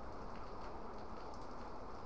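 Steady rain falling, with scattered drops tapping close to the microphone.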